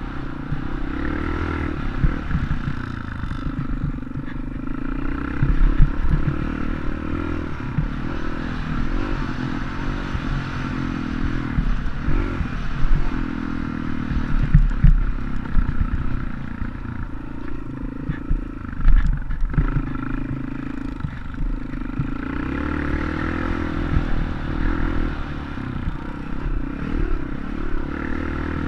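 Dirt bike engine running as it is ridden, its pitch wavering up and down, with rattling and scattered knocks.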